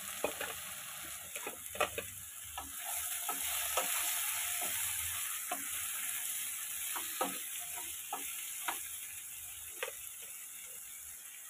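Ridge gourd slices sizzling in mustard oil in a nonstick wok, while a spatula stirs them with scattered scraping clicks against the pan. The sizzle swells a few seconds in, then eases.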